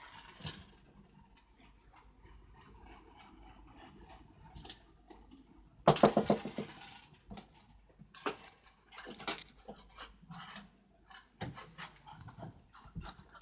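Scattered rustles and light knocks of a kitten at play, with a louder quick burst about six seconds in and another about nine seconds in.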